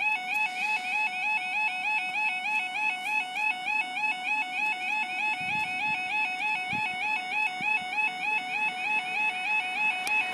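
Level crossing warning alarm sounding continuously, a fast, regularly repeating electronic warble, the signal that the barriers are down and a train is due.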